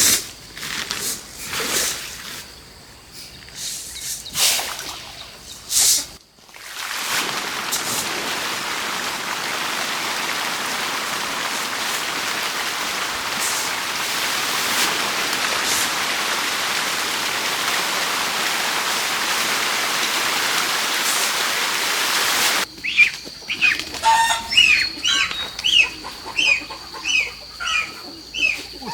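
Scattered rustles and knocks, then a steady hiss lasting about sixteen seconds that cuts off suddenly, followed by birds chirping rapidly, two or three calls a second.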